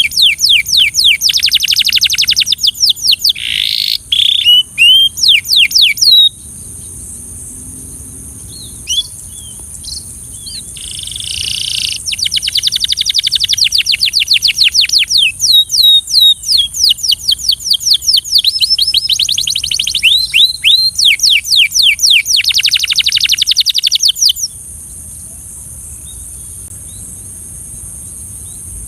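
Belgian canary singing in long, fast trills of rapidly repeated notes, with a pause of a few seconds between the first and second trill and another near the end before the song picks up again. A steady high hiss lies under it.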